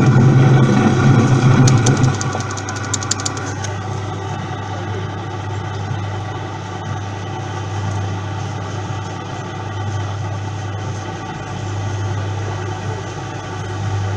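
Coin-operated RG Mitchell dumper-truck kiddie ride running, a steady hum. It is louder for the first couple of seconds, with a quick run of clicks.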